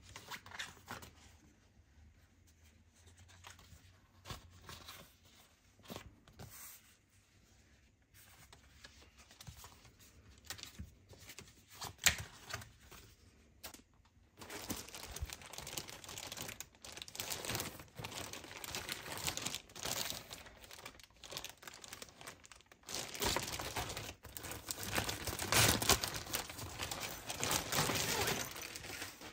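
Packaging being handled during an unboxing: scattered light taps and clicks at first, then from about halfway continuous tearing and crinkling of wrapping, loudest near the end.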